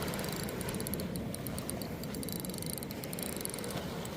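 Steady outdoor background noise with a fast, high-pitched pulsing chirr of insects.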